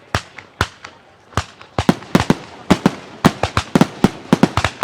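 Fireworks bursting overhead with sharp bangs. A few come singly, then from about two seconds in a rapid volley of many reports follows.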